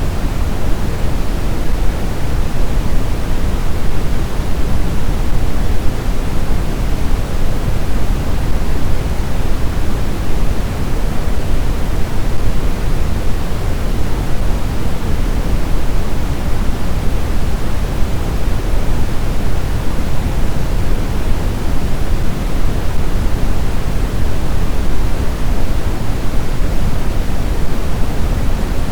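Steady blizzard wind noise, a dense, even rush heaviest in the low end, with no gusts or breaks.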